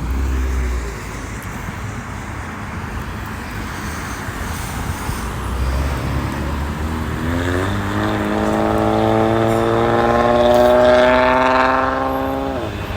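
Jet airliner flying low overhead on approach to land. The engine rush builds, and from about halfway a set of steady engine tones sliding slightly down in pitch as it passes, loudest near the end.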